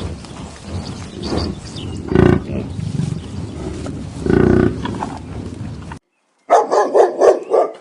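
Cattle calling twice in short, low moos against outdoor background noise. After an abrupt cut, a dog barks in a quick run of sharp yaps near the end.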